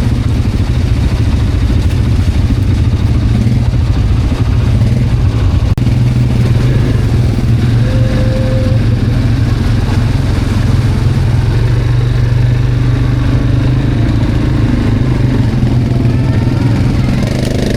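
Quad bike (ATV) engine running steadily while riding, a loud, even low drone.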